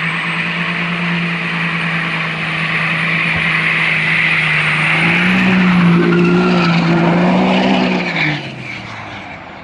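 Engine held at high, steady revs under a loud, dense hiss. The revs step up a little about five seconds in, then fall away and fade near the end.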